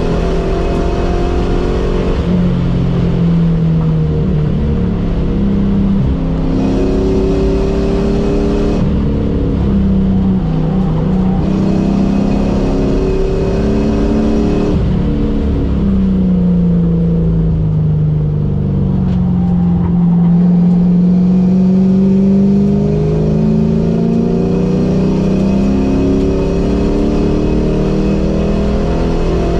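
Ford Mustang (SN95) engine heard from inside the cabin at full track pace: the engine note climbs under acceleration and drops back several times as the car shifts and lifts for corners, over steady road and wind noise.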